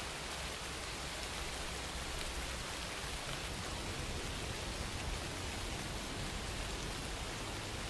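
Steady rain falling, an even hiss without distinct drops standing out or any change in level.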